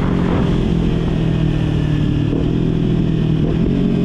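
Motorcycle engine running under way at a fairly steady pitch, heard from on the bike.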